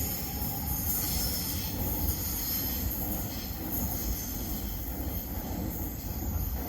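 X'trapolis electric multiple-unit train running on the rails: a steady rumble of wheels on track, with a thin high wheel squeal above it.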